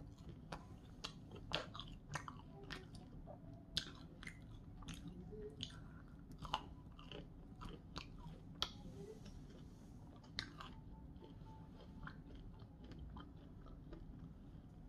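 Close-miked chewing of a crispy breaded chicken tender, with sharp crunches and wet mouth clicks. The crunches come often for the first several seconds, then thin out.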